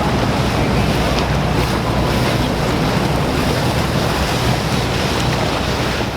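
Motorboat running through waves: a steady engine drone under rushing water, with wind buffeting the microphone.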